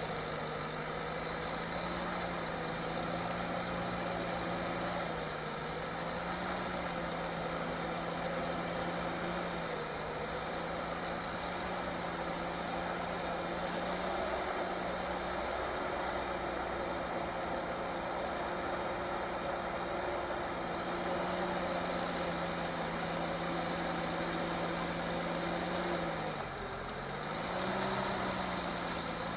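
Heavy vehicle's engine running steadily at a low, even speed, its pitch dipping briefly and coming back up near the end.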